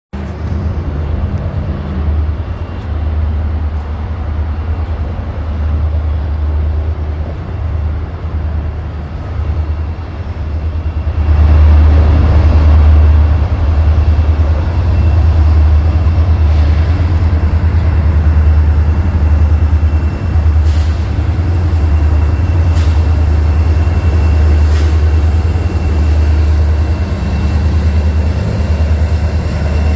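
Union Pacific SD40N diesel-electric locomotive, with its EMD 16-cylinder two-stroke engine, rumbling steadily as it leads a freight train past. The sound grows louder about eleven seconds in and stays loud, with the rolling noise of the train.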